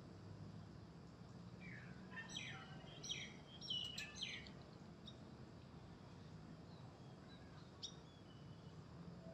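Faint small-bird chirps: a quick run of short falling chirps about two to four seconds in, then a couple of single chirps later, over a low steady background hum.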